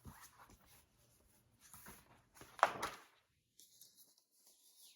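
A few soft rustles and taps from a picture book's paper pages being handled and opened, the loudest about two and a half seconds in.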